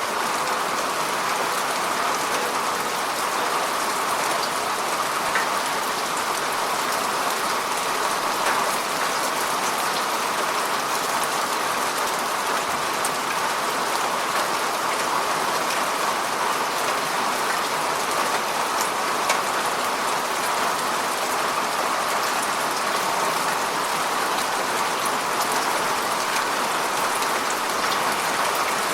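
Heavy rain falling steadily, an even hiss with scattered faint drop ticks.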